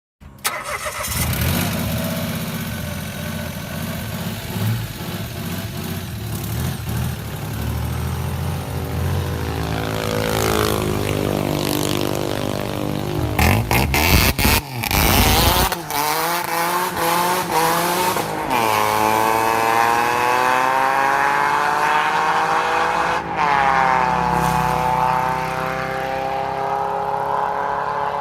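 Mitsubishi Mirage engine running through its muffler: a steady low note at first, rising in pitch as it revs around the middle, with choppy changes in revs after that, then a stronger note that climbs and falls again in the second half.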